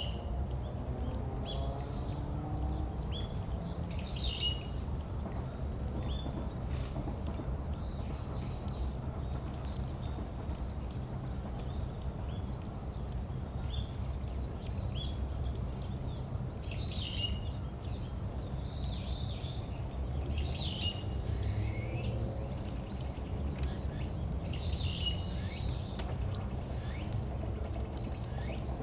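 A steady, high insect trill runs throughout, with short, falling bird calls every few seconds over a low background rumble.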